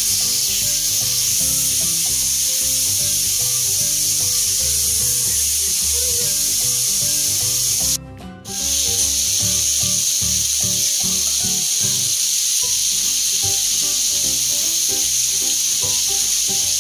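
Chicken and beef sizzling on a hot electric grill plate, a steady hiss over quiet background music. The sound drops out briefly about eight seconds in.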